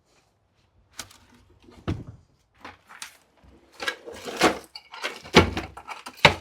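A loose piece of worktop and clutter being shifted by hand: an irregular series of knocks, bumps and scrapes, coming thicker and louder in the second half.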